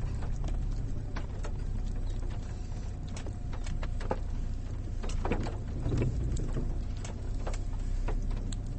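Low steady rumble of a vehicle heard from inside its cabin, with scattered sharp clicks and taps throughout.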